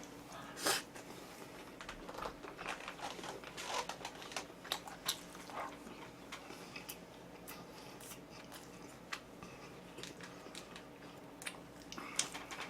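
Person eating: scattered wet chewing and crunching with small irregular clicks and taps of utensils and food containers.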